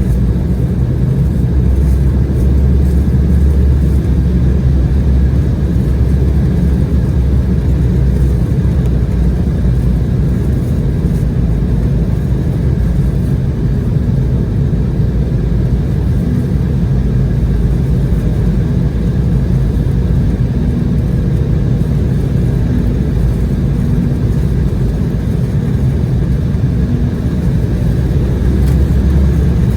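Steady cabin noise inside an Embraer E190 jet on approach: a low rumble of its CF34 turbofan engines and the airflow, with a few faint steady tones over it.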